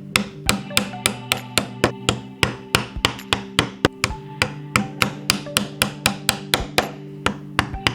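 Mallet striking a chisel in quick, repeated blows, about four a second, typical of chopping out a mortise by hand. Soft background music runs underneath.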